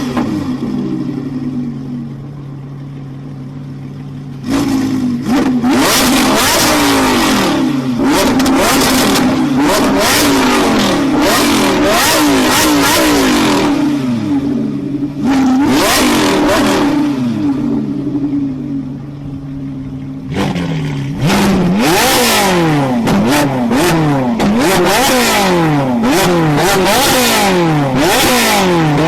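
Exhaust of an Italian supercar engine idling, then blipped and revved over and over, each rev rising and falling in pitch. There are long runs of revs from about four seconds in and again in the last third, the later ones quicker and closer together, with a quieter idle spell between.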